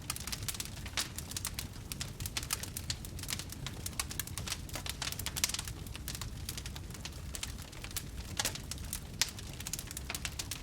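Wood fire crackling: many irregular small pops and snaps, with a few sharper ones, over a steady low rumble of burning.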